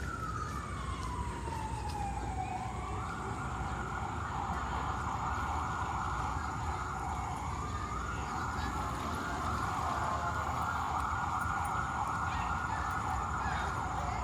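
Emergency vehicle siren: a slow wail falling in pitch, switching about three seconds in to a rapid yelp that carries on, over a low rumble of street traffic.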